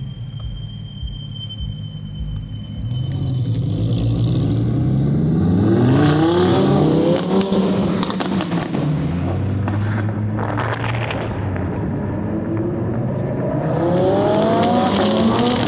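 Lamborghini supercar engines accelerating hard, the engine note climbing in pitch for several seconds, once about three seconds in and again near the end.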